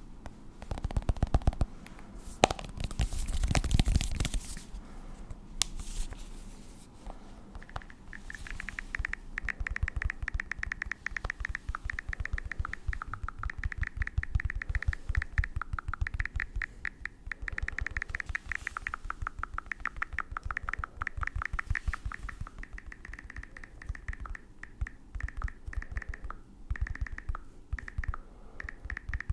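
Rapid close-up scratching and tapping on an object, a fast run of small clicks, loudest in the first few seconds.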